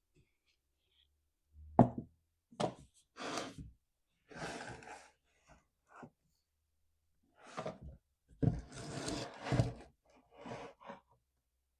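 Handling noises on a workbench: a series of knocks, thuds and short scrapes as a chainsaw and tools are moved about, with the sharpest knock about two seconds in.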